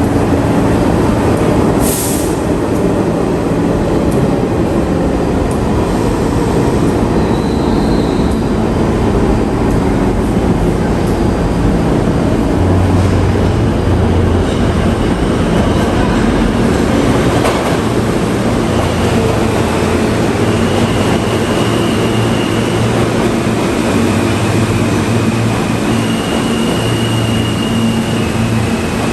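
New York City subway train running through the station: a loud, steady rumble with a low hum that shifts pitch in steps. A sharp click comes about two seconds in, and thin high tones appear in the second half.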